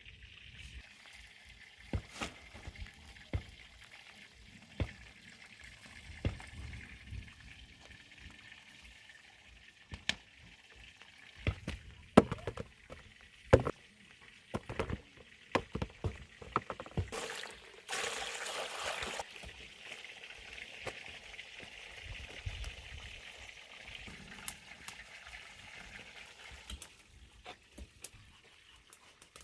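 Scattered knocks and clinks of pots and utensils being handled, with a brief rush of water being poured for about two seconds past the middle.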